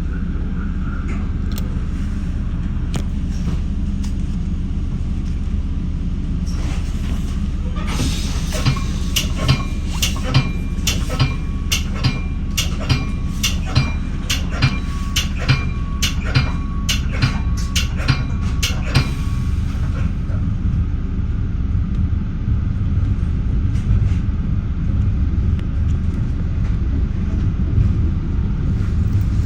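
Commuter train running with a steady low rumble. From about eight seconds in to about nineteen seconds, a bell rings in evenly spaced strokes, about one and a half a second.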